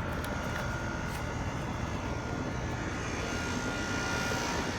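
Steady machine drone with a faint, constant high whine over it, unchanging throughout.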